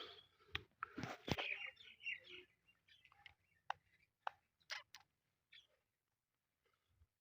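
Indian ringneck parakeet making soft chirps and chatter mixed with sharp clicks, busiest in the first couple of seconds, then sparse short sounds that die away to near silence near the end.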